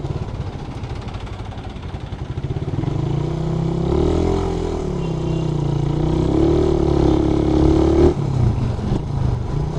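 Suzuki Raider 150 carburetted single-cylinder engine running low at first, then its pitch climbs about three seconds in as the bike accelerates, dips and climbs again, and drops off suddenly about eight seconds in.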